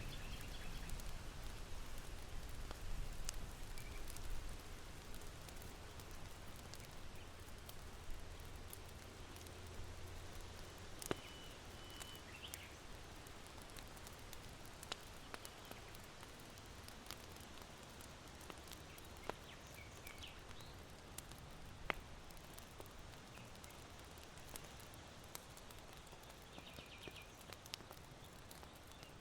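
Charcoal fire in an irori hearth crackling with sparse, sharp pops, over a low rush of wind in bamboo that eases after the first third. A few faint, short chirps of small birds come through now and then.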